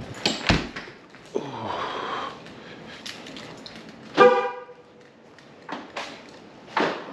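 A car horn gives one short beep about four seconds in, the loudest sound here, among a few scattered clicks and clunks.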